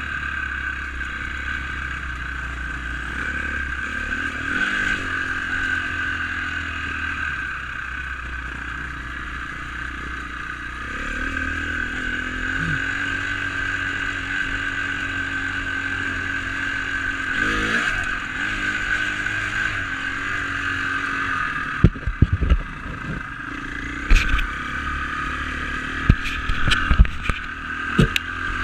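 Dirt bike engine running steadily while being ridden, rising in pitch briefly a few times. Several sharp knocks come in the last several seconds, typical of the bike jolting over rough trail.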